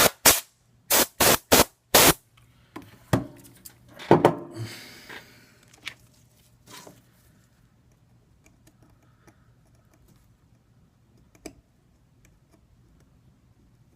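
Six quick hissing spray bursts in about two seconds, then a few clicks and a sharp knock about four seconds in, followed by light handling ticks during the iPad 2 repair work.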